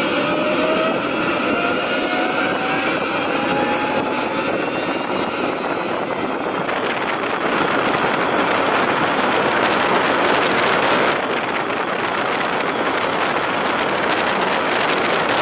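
Jet aircraft engines running loudly: a steady, dense rush of engine noise with thin whining tones that rise slowly in pitch, as in engines spooling up.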